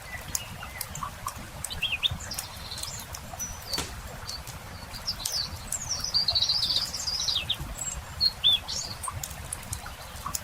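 Small birds chirping and singing in short high phrases, with the busiest run of notes about halfway through, over the scattered pops and crackles of a wood campfire.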